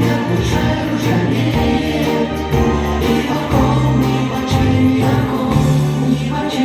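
Vocal-instrumental ensemble performing a pop song, several voices singing together over a band accompaniment with sustained bass notes.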